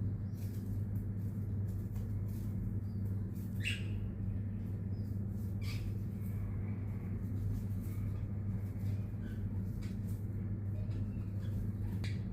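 Baby parrot giving a few short chirps, the clearest about four and six seconds in, over a steady low hum.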